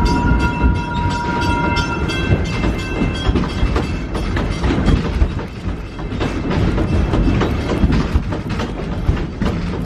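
Wildlife Express passenger train cars rumbling and rattling along the track, with frequent clicks and clatter. A steady high squeal sounds for the first two to three seconds, then stops.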